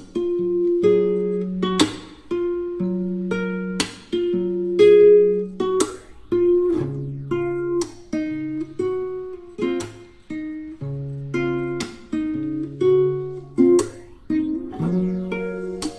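Background music played on acoustic guitar: plucked notes and strummed chords at a slow, even pace over a changing bass line.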